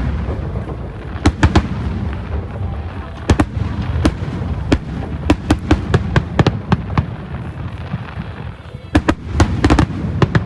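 Aerial fireworks bursting: many sharp bangs at irregular intervals, some in quick clusters, over a steady low rumble.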